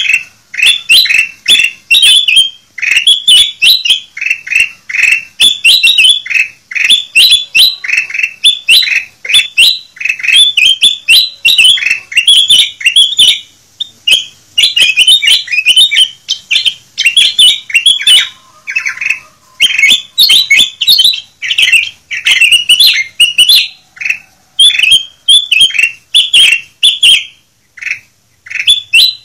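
Kutilang emas bulbul singing: quick, repeated bursts of bright chirps and twittering phrases with only brief pauses, the kind of song used as a lure and training (masteran) call.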